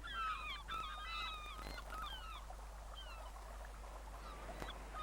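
Several shorebirds calling over one another: many short, thin whistled notes sliding up and down, busiest in the first second and a half, then scattered single calls.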